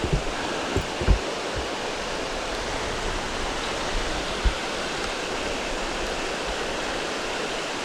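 River rapids rushing steadily: an even hiss of fast-moving water, with a few soft low thumps in the first second and one more about four and a half seconds in.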